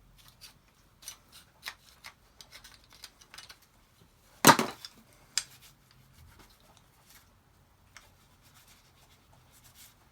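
A waxy cloth rubbing and light clicks from handling small metal and wooden parts. A single sharp knock about four and a half seconds in, then a smaller one, as something is set down or knocked.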